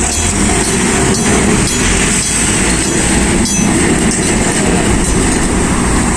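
Enoden electric train passing over a level crossing, its wheels running loud and steady on the rails, while the crossing's electric bell keeps ringing.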